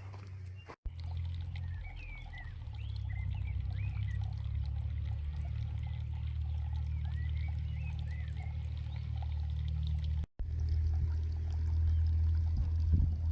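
Water running steadily, with small bird chirps above it.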